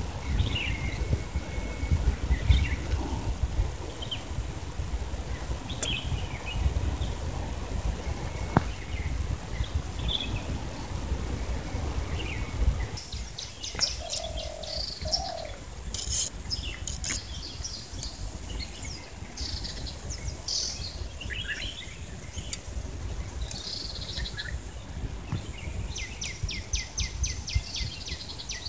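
Small birds chirping and calling, ending in a fast run of quick, evenly spaced chirps. A low rumble runs through the first half.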